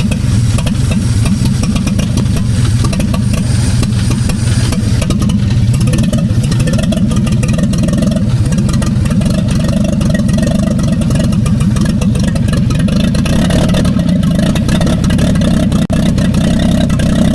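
Old Chevrolet truck engine running steadily with a fast, even beat.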